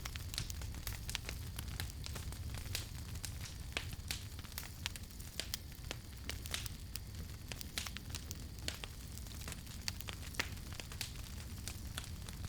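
Wood fire crackling, with frequent irregular sharp pops and snaps over a low steady rumble of the flames.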